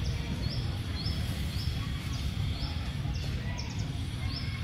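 A bird repeating a short, high chirp that drops in pitch, about twice a second, over a steady low rumble.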